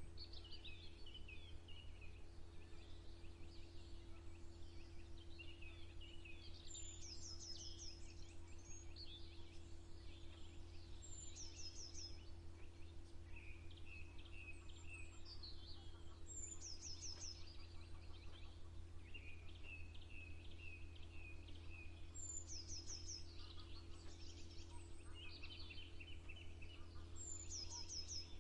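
Several songbirds singing, faint: quick trills and short chirping phrases, with one high, fast phrase repeating about every five seconds. A steady low hum runs underneath.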